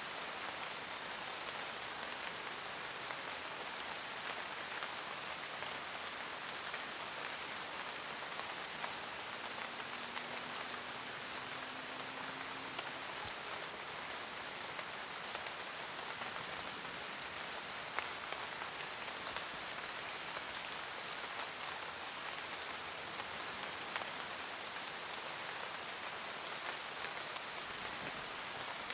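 Steady forest rain: an even hiss of rainfall with scattered louder individual drops ticking on leaves.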